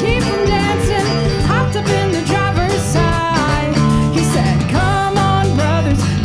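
A band plays a song at full volume: a steady bass and drumbeat with cymbal hits, under a lead melody that slides and bends between notes.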